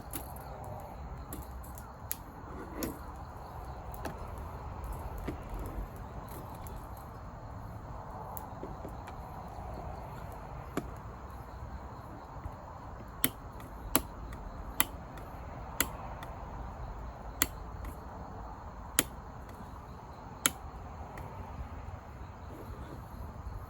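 A run of seven sharp knocks or taps, roughly one a second, over a steady low rumble.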